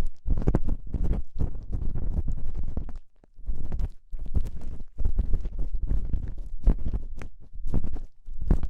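Ear-cleaning tool scraping and rubbing close against an ear-shaped microphone, in irregular, muffled strokes with two brief pauses.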